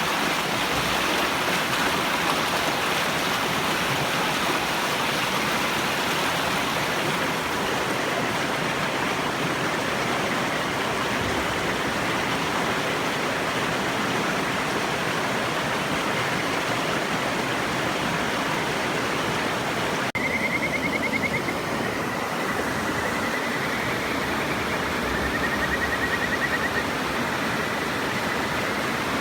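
River water rushing steadily. About two-thirds of the way in, kajika frogs (Buergeria buergeri) start singing over it: repeated high, trilled whistles, some of them gliding up or down in pitch.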